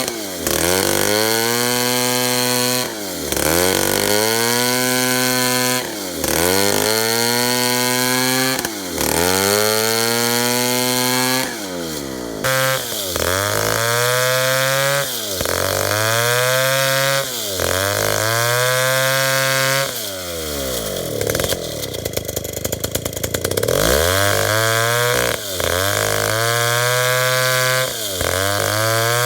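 Two-stroke chainsaw cutting tembesu hardwood, its engine pitch sagging under load and climbing back every two to three seconds. About two-thirds of the way through it falls to a lower, rough, rattling speed for a few seconds, then revs back up and goes on cutting.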